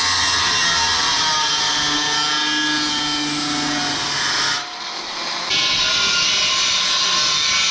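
Loud power tool cutting sheet metal for a fender patch panel, a harsh hiss with a wavering whine. It eases off briefly a little past halfway through, then bites back into the metal.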